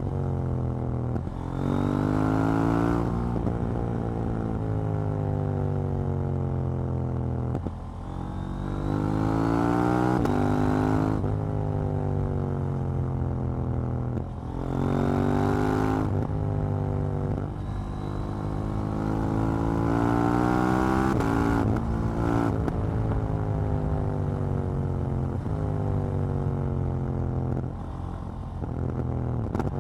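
KTM 790 Duke's parallel-twin engine and exhaust under way, pulling hard with the pitch rising quickly through the gears, then falling slowly on the overrun. The pull-and-roll-off cycle repeats about four times, with short breaks in the note at the gear changes.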